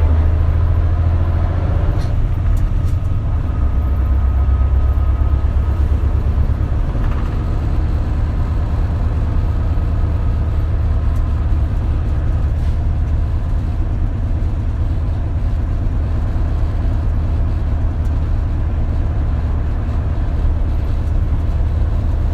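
Isuzu KL-LV280L1 city bus running on the road, heard inside the cabin: a steady low engine drone with road noise, and a faint thin whine over it for several seconds early on.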